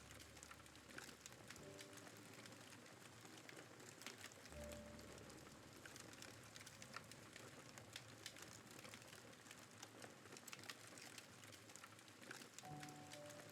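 Faint campfire crackling, with many small pops and snaps, under soft background music of long held notes and low bass tones.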